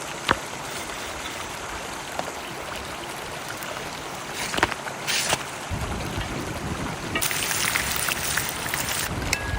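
A river flowing steadily. A few sharp clicks come in: one just after the start and two around the middle. A low rumble joins about halfway, and a louder hiss follows for a couple of seconds near the end.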